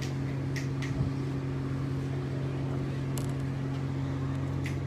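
Steady low hum of running machinery, with a few faint clicks and a single thump about a second in.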